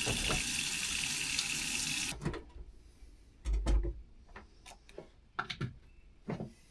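Water running from a tap into a sink, shut off about two seconds in, followed by a few light knocks and clatters of kitchenware being handled.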